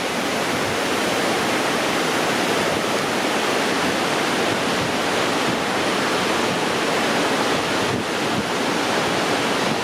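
Large waterfall rushing: a steady, loud wash of falling water that does not let up.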